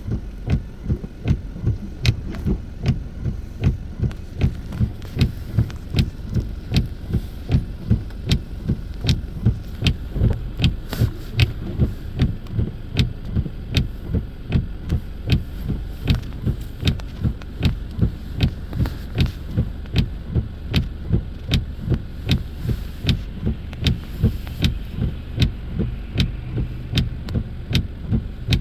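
Car windshield wipers beating steadily, about two strokes a second, each with a thump and a click, over steady engine and road noise inside the cabin.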